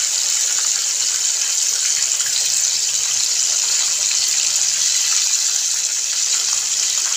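Fish steaks frying in hot oil in a pan: a steady sizzle, mostly a high hiss.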